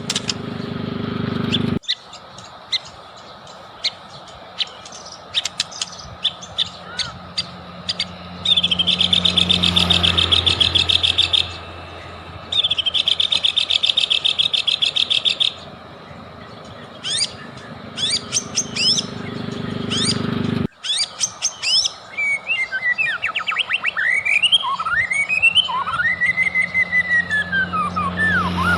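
White-rumped shama (murai batu) singing: a run of sharp chips, then two long, fast rattling trills, then looping whistled phrases that rise and fall near the end. The song is the kind played as a 'pancingan' to provoke other shamas into singing, and it is broken by two abrupt edit cuts.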